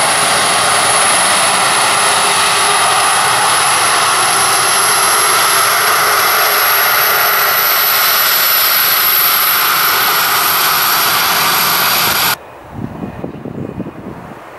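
Aircraft engines running loudly and steadily, with a thin high whine that slowly rises in pitch. The sound cuts off abruptly about twelve seconds in, leaving a faint, uneven low rumble.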